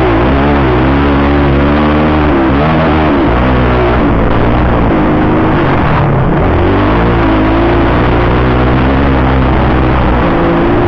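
Motocross bike engine revving up and down in quick surges, the pitch rising and falling repeatedly as the throttle is worked.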